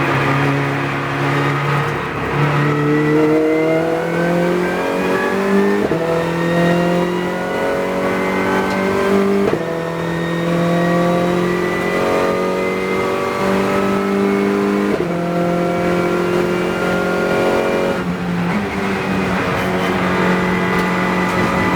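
Renault Clio Cup race car's engine under hard throttle, heard from inside the car. Its pitch climbs through several gear changes, each a sudden jump in pitch, about four over the stretch.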